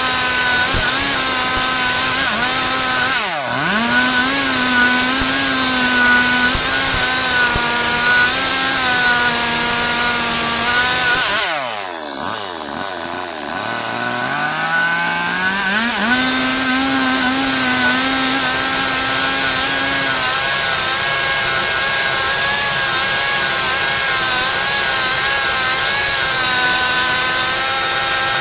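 Stihl MS 382 two-stroke chainsaw running at high revs while cutting through a log. Its pitch dips briefly about three seconds in, then drops away in the middle as the throttle eases and climbs back to full speed over a few seconds.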